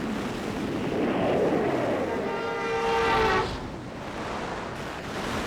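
Rushing river water. About two seconds in, a single high, evenly pitched tone is held for about a second over it.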